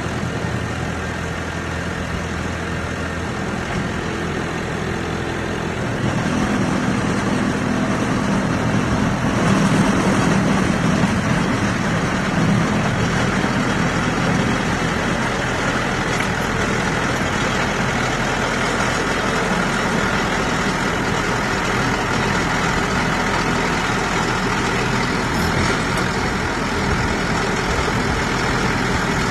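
Water-well drilling rig's engine running steadily, getting louder about six seconds in.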